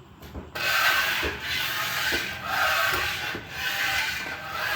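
Something being rubbed down by hand with an abrasive, in rasping strokes about once a second, as in scouring or sanding rust off a part.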